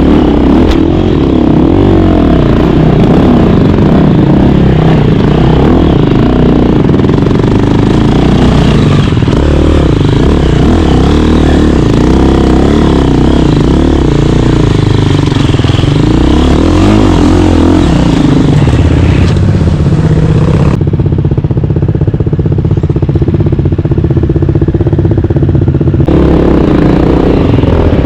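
KTM 350 dirt bike's four-stroke single-cylinder engine running under riding load, its pitch rising and falling with the throttle. About three-quarters of the way through it settles into a steadier note for several seconds, then varies again.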